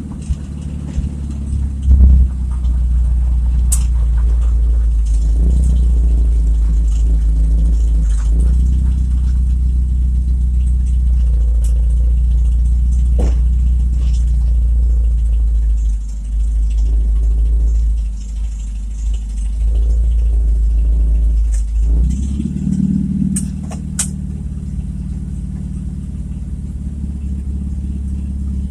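A car's engine running loud through an exhaust that needs repair: a steady, deep rumble while driving, with a few brief clicks and rattles.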